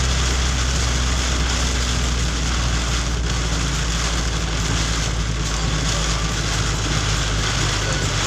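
Heavy rain falling steadily, with a low, steady vehicle rumble underneath.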